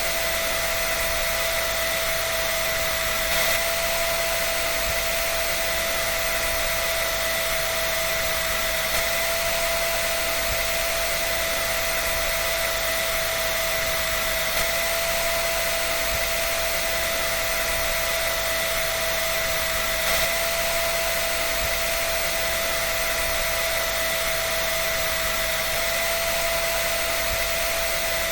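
Hair dryer running steadily: a constant blowing hiss with a steady whine from its fan motor.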